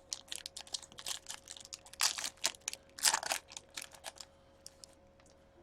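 A hockey card pack being opened by hand: the wrapper crinkles with many small clicks, and there are two louder rips about two and three seconds in.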